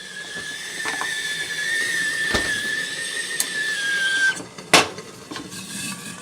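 Stovetop kettle whistling at the boil with one steady high tone, which stops about four seconds in. A single sharp clack follows shortly after.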